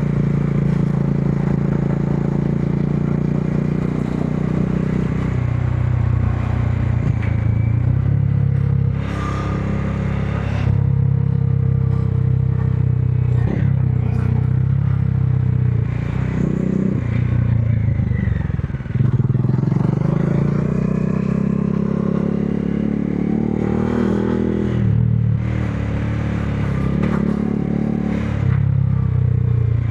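Modenas Dominar 400's single-cylinder engine running under way in traffic, its revs rising and falling several times with throttle and gear changes.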